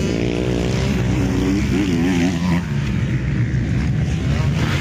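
Motocross dirt-bike engines running and revving, their pitch rising and falling.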